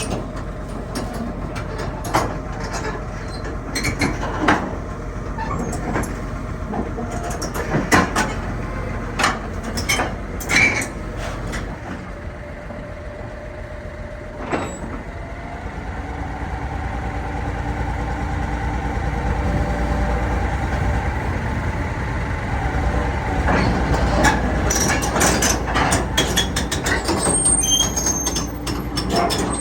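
Hitachi ZX330LC-3 hydraulic excavator running, with a series of sharp metallic clanks and knocks through the first half. From about halfway the engine note grows louder and steadier and holds.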